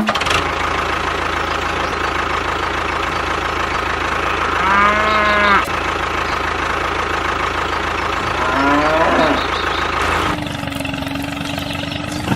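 Engine running steadily while a cow moos twice, once about five seconds in and again about nine seconds in. About ten seconds in, the engine noise gives way to a steady hum.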